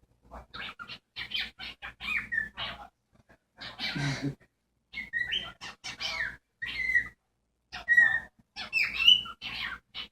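Cockatiel chattering excitedly in a rapid series of short chirps and whistles, some gliding in pitch, in clusters with brief pauses and one harsher call about four seconds in. The owners say this excited display comes whenever a storm is coming.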